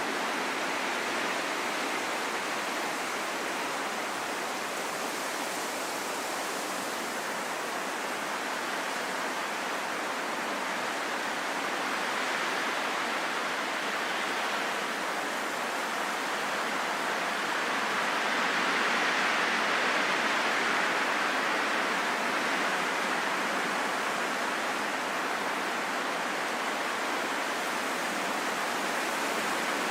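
Wind: a steady hiss with almost no low rumble, swelling gently and loudest a little past the middle.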